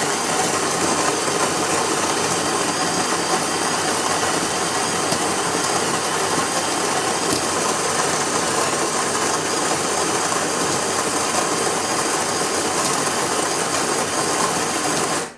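Breville Barista Max+ built-in coffee grinder grinding beans into the portafilter: a loud, steady mechanical grinding noise that cuts off suddenly at the end.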